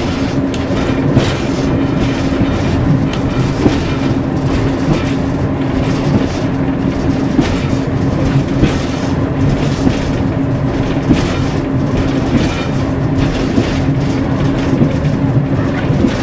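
Class 141 Pacer diesel railbus running along the line, heard from the driver's cab: a steady engine drone with a constant hum, and frequent irregular knocks and rattles.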